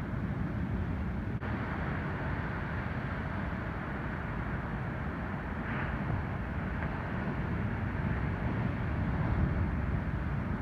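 Steady roar of ocean surf as typhoon swell breaks on the beach, a continuous rumbling rush with no distinct events.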